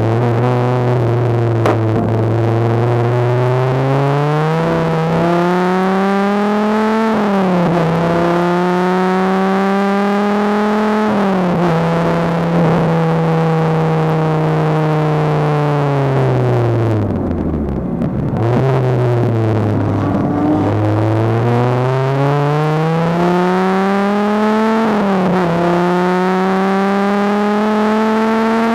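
Dodge Viper RT/10's V10 engine heard onboard at speed on track: the revs climb and then drop suddenly at each gear change, fall away slowly for a long slowdown about two-thirds of the way through, then climb through the gears again.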